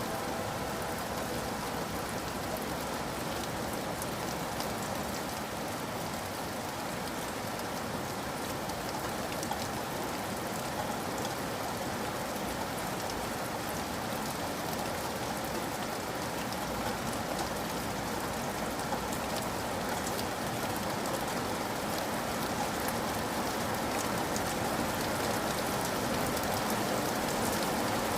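Steady rain falling, an even hiss with many small drop ticks, growing slightly louder toward the end.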